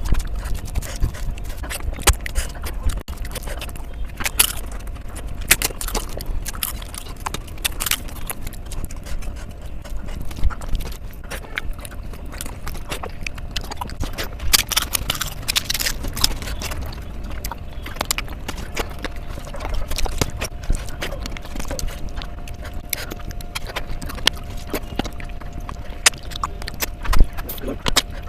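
Close-miked eating: irregular wet smacks and clicks of chewing mouthfuls of fish curry and rice.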